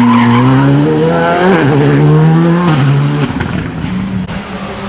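Rally car engine at high revs passing on a stage. The pitch dips and climbs sharply through a gear change, holds, then falls about three seconds in as the car lifts off, and the sound gets quieter.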